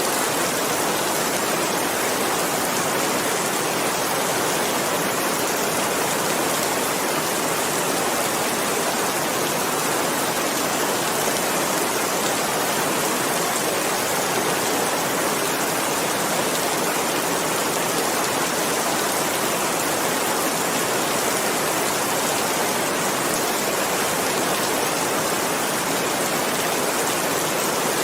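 Steady, even rain, a dense hiss with no single drops standing out.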